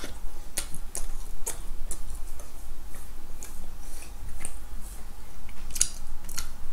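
Close-miked chewing of a soft Krispy Kreme doughnut: irregular wet mouth clicks and lip smacks, a few to the second.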